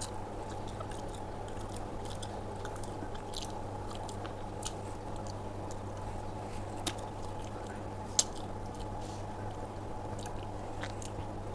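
A person chewing and eating food, with scattered small wet mouth clicks and one sharper click about eight seconds in, over a steady low hum.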